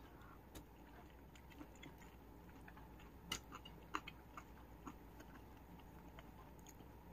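Faint chewing of a mouthful of soft cooked vegetables, with a few small, soft clicks here and there over quiet room tone.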